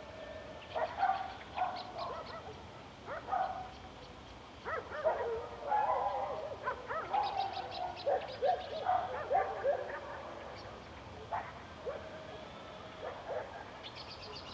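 Evening countryside field recording: a run of short, irregular animal calls, bunched and overlapping in the middle, with quick high bird chirps over a steady background hush.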